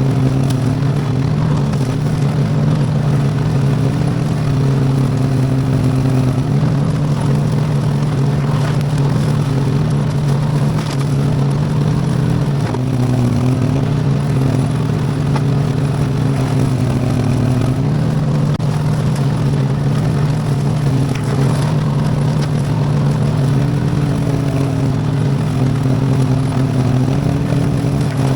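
Briggs & Stratton V-twin engine on a small Iseki tractor running steadily, with a few brief dips in pitch as it takes load.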